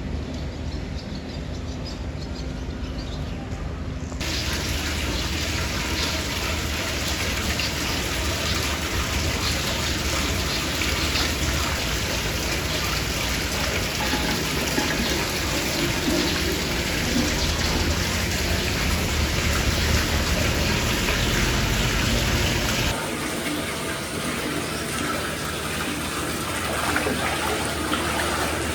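Water pouring and trickling steadily into a foot bath. The sound jumps louder about four seconds in, and changes abruptly again a few seconds before the end.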